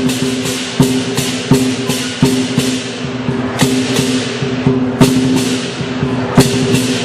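Lion dance percussion: a drum and clashing cymbals beat a steady rhythm, with strokes roughly every 0.7 seconds over a ringing gong-like drone.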